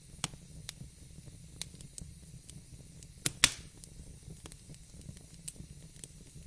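Wood fire burning in a fireplace: a low steady rumble with scattered sharp crackles and pops, the loudest a pair of cracks a little past the middle, the second trailing off in a short hiss.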